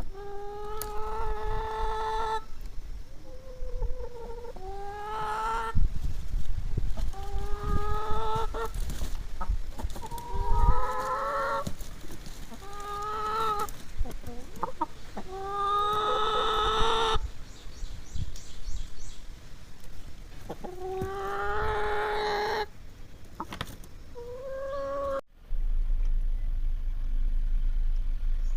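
Domestic hens calling over and over, each call a drawn-out, slightly rising squawk of one to two seconds, about nine in all, with low thumps beneath. Near the end the calls stop abruptly and a steady low hum remains.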